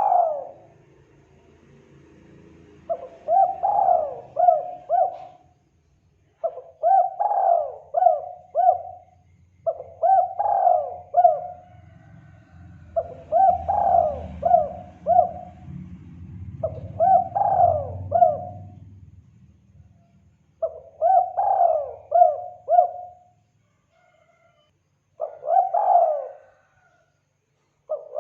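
Spotted dove (tekukur) cooing its lure call: a phrase of several quick coos repeated about every three and a half seconds, about seven times.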